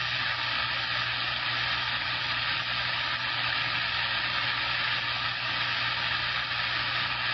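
CB radio receiver putting out steady static hiss with a faint hum underneath, the open channel between transmissions.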